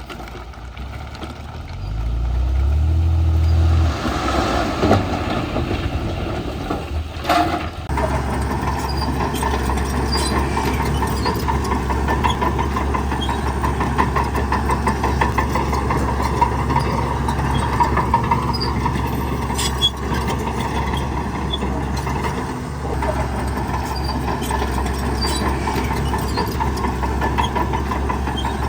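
Heavy diesel engine of earthmoving machinery revving up briefly early on, then, after a sharp clank about seven seconds in, running steadily under load with a fast, even rhythmic beat.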